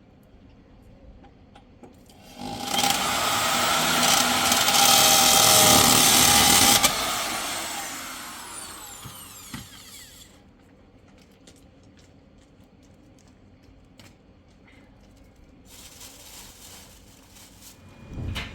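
Vacuum cleaner motor switched on for about four seconds, then switched off, its whine falling away as it winds down over a few seconds. A shorter, quieter run follows near the end, closing with a thump.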